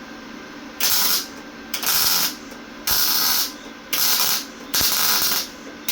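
Lincoln MIG welder arc crackling in five short bursts, about one a second, as stitch welds are laid. The arc is working through a worn contact tip, which the welder blames for his poor welds.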